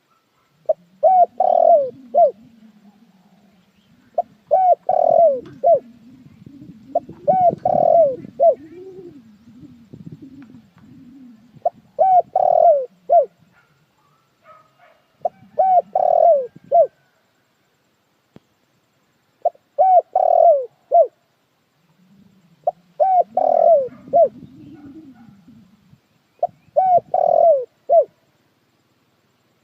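A dove (puter dekukur) cooing: about eight short phrases of three or four coo notes each, repeated every three to four seconds. A softer, lower sound runs beneath some of the phrases.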